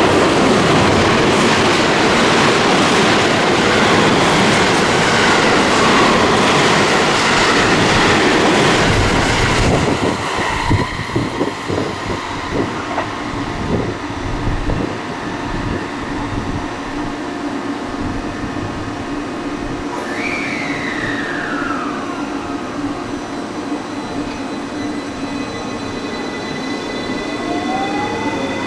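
Electric train passing at speed, a loud rush of wheels on rail for about ten seconds that breaks into a few wheel thumps as the last cars go by. After that a quieter steady whine from a train, with one tone gliding down about twenty seconds in and another rising near the end.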